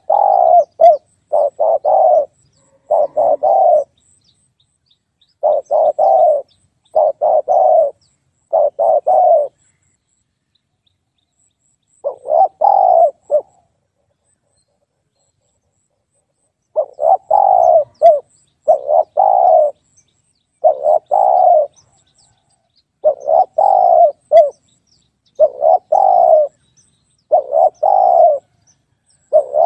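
Spotted dove cooing: short low coos repeated in phrases of two or three notes, with a pause of a few seconds between some phrases.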